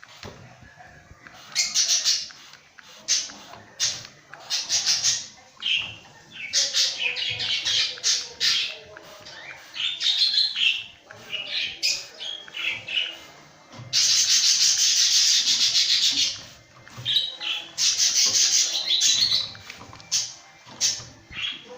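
Spray bottle misting water over pet lovebirds in repeated short hissing squirts, with one long spray about two-thirds through. The lovebirds squawk between the sprays.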